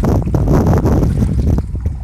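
Wind buffeting the microphone in a loud, uneven rumble, easing off near the end.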